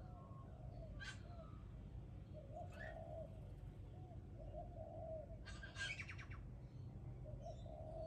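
Birds calling outside: a low warbling note repeated again and again, with a few short sharp high calls. The loudest is a quick run of high notes about six seconds in.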